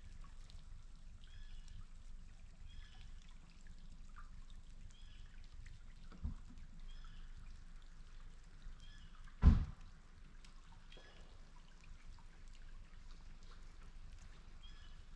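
Water trickling and sloshing, with faint short chirps repeating about every second and a half. There is a small knock about six seconds in and one loud thump a little past halfway.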